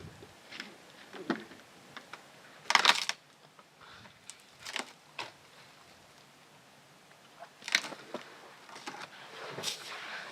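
Intermittent crunching and crackling, like dry vegetation being stepped on or broken, with a loud crunch about three seconds in and more near eight and ten seconds in.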